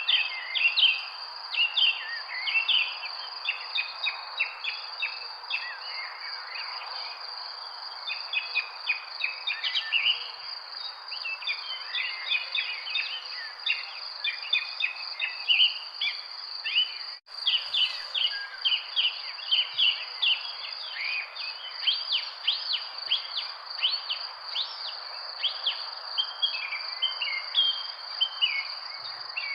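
Many birds chirping in quick, overlapping short calls over a continuous high insect trill, such as crickets, with a steady background hiss. The sound drops out for a split second about halfway through.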